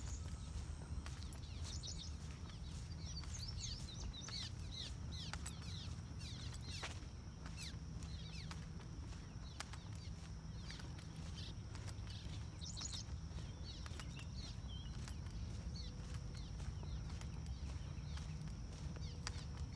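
Small birds chirping in quick runs of short falling notes, busiest in the first two-thirds, over a steady low rumble and scattered light clicks.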